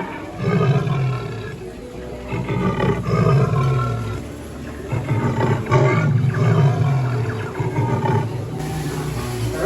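Recorded wild-animal roars from a jungle-themed restaurant's animatronic sound effects: several long, low roars in a row.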